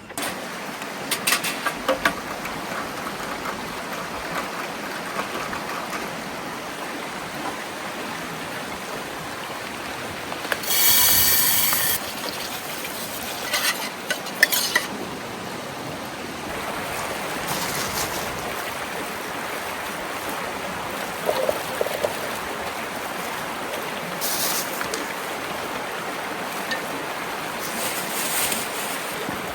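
Steady rush of a mountain stream, with scattered clicks and clatter of things being handled, and a brief buzzy rasp about eleven seconds in.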